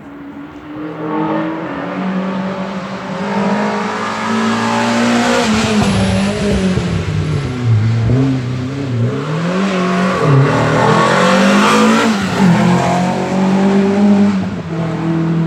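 Peugeot 306 Maxi rally car's naturally aspirated four-cylinder engine approaching at full stage pace, growing steadily louder. Its pitch drops through the downshifts about halfway in, then rises and falls repeatedly as the driver works the throttle through a hairpin, echoing off the hillside.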